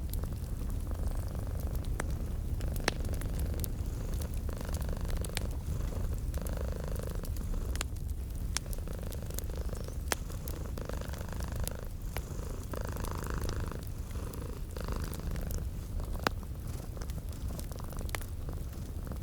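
Domestic cat purring steadily in a low rumble, over a wood fire crackling, with scattered sharp pops.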